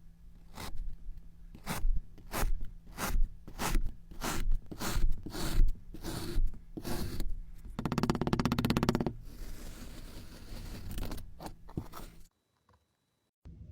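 A series of short, crisp scraping strokes, roughly two a second, then a continuous rasp lasting about a second near the middle, followed by a few more strokes; it cuts off to silence near the end.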